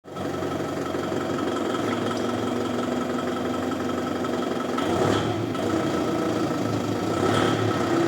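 Forklift engine running steadily, with brief rises about five seconds in and again near seven seconds.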